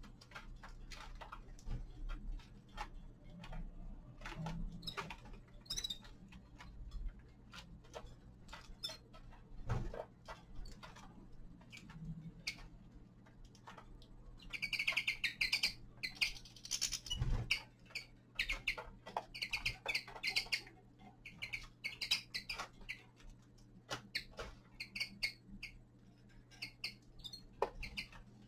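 Caged finches feeding, with a steady run of small sharp clicks of beaks pecking and cracking seeds. From about halfway, bursts of high twittering chirps come in clusters over the clicking.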